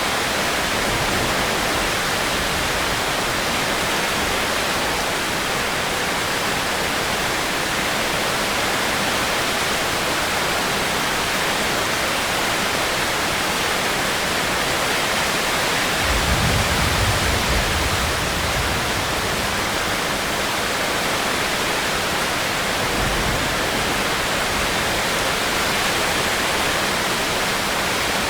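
Steady rain, an even hiss. A brief low rumble comes in a little past halfway through, with a fainter one shortly after.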